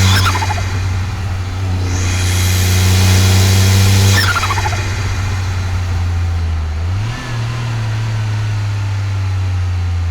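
Car engine running with a steady low hum, revved twice: each rev ends in a quickly falling whine as the revs drop, after which it runs steadily.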